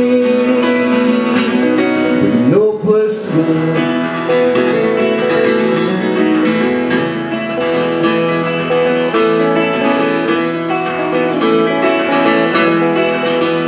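Acoustic guitars playing an instrumental break in a live folk-country song: strummed chords under a picked lead melody. The singer's last held note trails off in the first couple of seconds.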